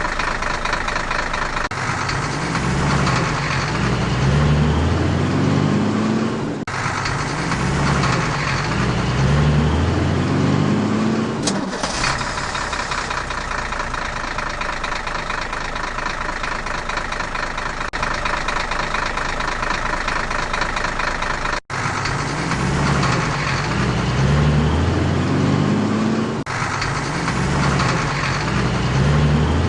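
Vehicle engine running, its pitch climbing in a repeated rise about every four to five seconds as if revving, with a steady hum above it and a brief cut in the sound about two-thirds of the way through.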